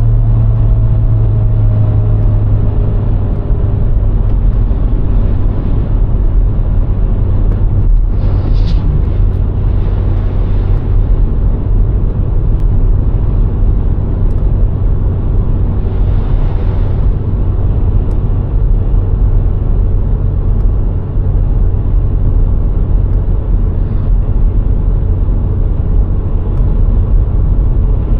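VW Golf IV 1.6's four-cylinder petrol engine and tyre road noise as the car drives along steadily: a constant low hum and rumble. A few brief hissing swells come and go along the way.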